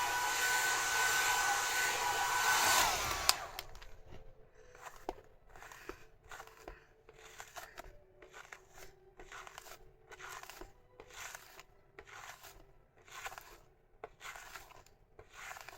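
Hair dryer running with a steady whine, then switched off with a click about three seconds in, its pitch sliding down as the fan spins down. After that, a run of soft rustling strokes, about two a second.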